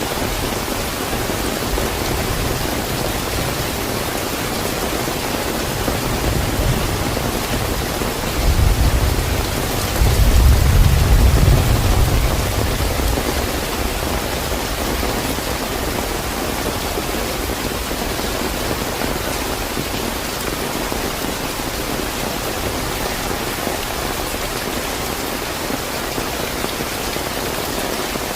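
Steady heavy rain hissing, with a deep roll of thunder swelling about a third of the way in and dying away a few seconds later.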